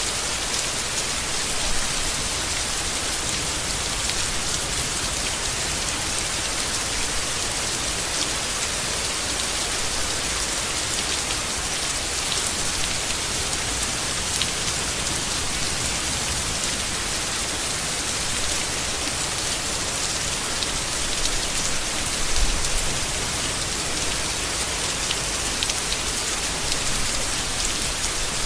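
Steady, heavy rain falling on leaves: a dense, even hiss of drops. A brief low rumble comes about three-quarters of the way through.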